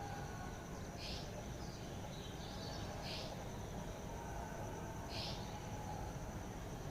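Outdoor wildlife ambience: a steady high insect trill, a short harsh call repeated three times about two seconds apart, and faint bird whistles over a low rumble.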